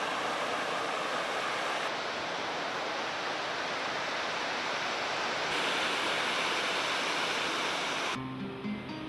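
Steady rushing noise with no tone in it, which changes abruptly in brightness twice as if cut between takes. Near the end it drops away and plucked guitar music comes in.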